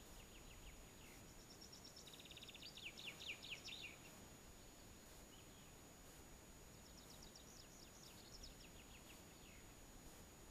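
Faint songbird song over a quiet background: a rapid trilled phrase about two seconds in, and another about seven seconds in.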